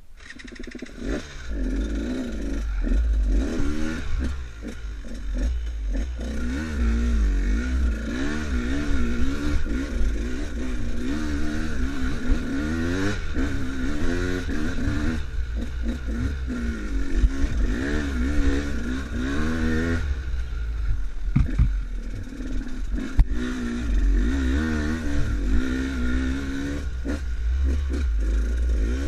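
Enduro motorcycle engine being ridden, its revs rising and falling over and over as the throttle is worked, with a few sharp knocks.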